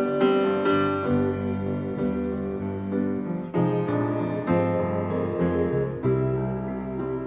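Piano playing slow, sustained chords over low bass notes, the chords changing every second or so: the instrumental introduction of a rock ballad before the vocal comes in.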